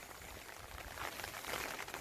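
Light rain pattering: a soft, even hiss of many small drops.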